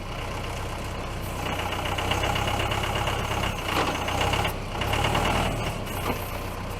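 Tractor engine running steadily under load, with a higher mechanical whine that comes and goes, as the tractor's forks work a heavy section of oak log.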